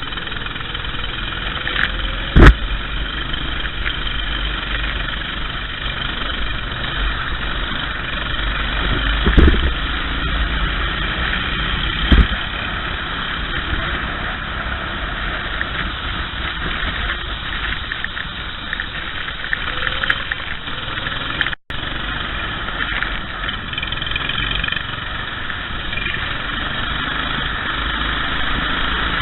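Kart engines running steadily, several at once, with a few sharp thumps.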